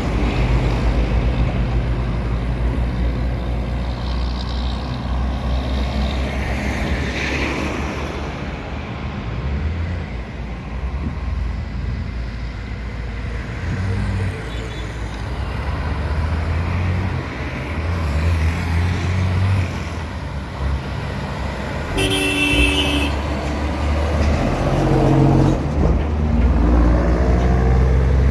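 Truck engine running steadily on the road, with a single horn blast of about a second roughly three quarters of the way through, then the engine pitch rising near the end.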